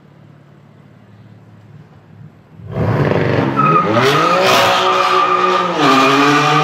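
A supercar engine idles low and quiet, then about two and a half seconds in the car launches hard at full throttle. The revs climb steeply, dip at an upshift near the end, and start climbing again.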